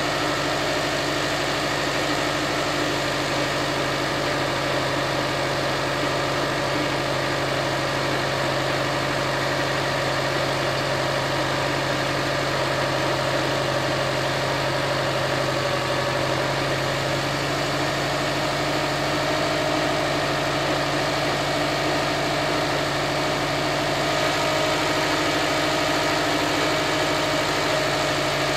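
Subaru WRX STI's turbocharged boxer four idling steadily shortly after a cold start at −10 °C, still on its warm-up idle.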